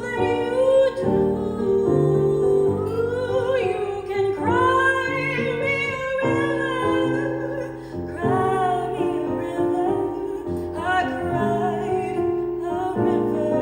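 A woman singing a slow ballad live, holding long notes with vibrato, accompanied by piano.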